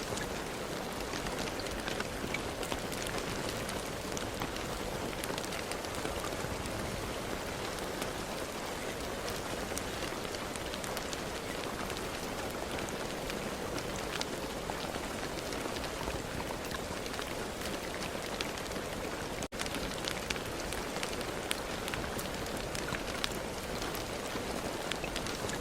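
Steady rain falling, with many small distinct drop ticks over an even hiss. There is a split-second dropout about three quarters of the way through.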